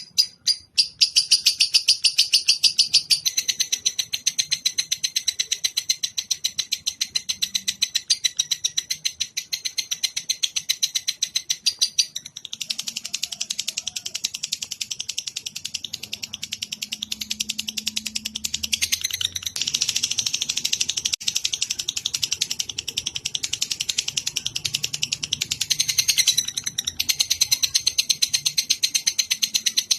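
Recorded songbird chattering: a long, unbroken, very rapid run of high repeated notes that shifts its pattern several times.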